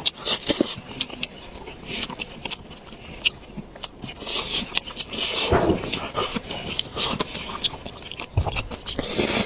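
Close-miked eating: a person biting and chewing food, with irregular wet clicks and smacks of the mouth.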